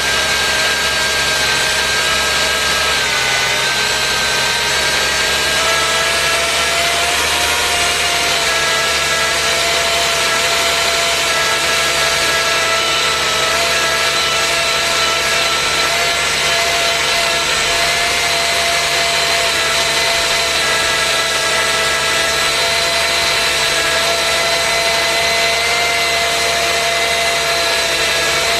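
Subaru Legacy EZ30R flat-six running with its power steering pump whining steadily in several high tones, the pitch wavering slightly a few seconds in. This is the abnormal pump noise that led the owner to replace the pump with a rebuilt one.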